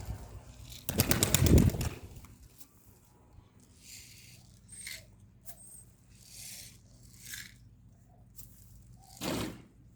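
Pigeons' wings flapping: a loud rapid flurry of wingbeats about a second in, then soft scattered rustles, and another short flutter near the end.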